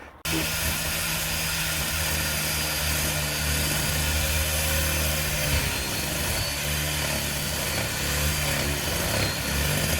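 Arbortech power tool cutting out bricks from a brick wall, its motor running steadily at constant speed with a dense gritty hiss over a steady hum.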